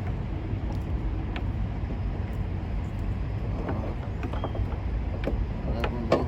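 Steady low background rumble with a few light clicks and knocks of metal parts being handled and fitted by hand.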